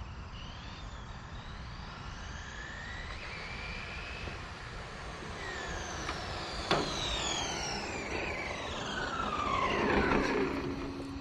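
Brushless electric motor of a Losi 22S RC drag car whining through a test pass. The pitch rises high as the car accelerates, then falls steadily over several seconds as it slows. There is a sharp click about seven seconds in.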